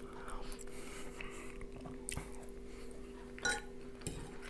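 Close-up chewing of a mouthful, with a few sharp clinks of a metal fork against a frying pan, the last one about four seconds in.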